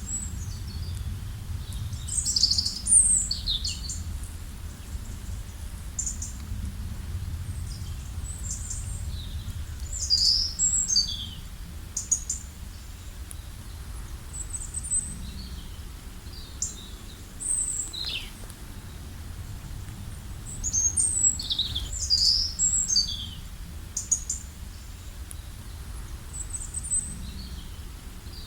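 Wild birds chirping in short high-pitched calls that come in clusters several times, over a steady low rumble.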